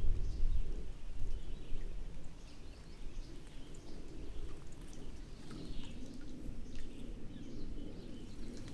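Faint, scattered short bird chirps over a low outdoor rumble; the rumble is heavier in the first couple of seconds.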